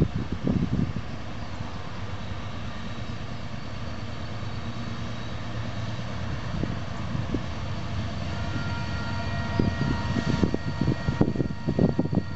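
Diesel locomotives of an approaching freight train, heard from a distance as a steady low drone that slowly grows louder, with a few faint higher tones joining about eight seconds in. Wind buffets the microphone in gusts near the start and again near the end.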